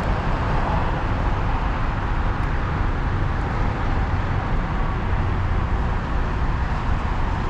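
Steady road noise of a car driving: an even rumble of tyres and engine with no distinct events.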